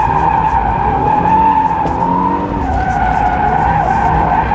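A 2024 Toyota GR86's tyres squealing continuously through a drift, in a loud wavering tone. Its 2.4-litre flat-four engine revs rise and fall underneath.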